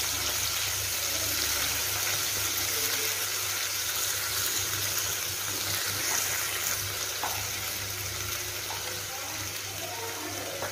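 Curry base sizzling and frying in oil in a nonstick kadai, a steady hiss that slowly fades, with a few light scrapes and taps of a wooden spatula stirring it over a low steady hum.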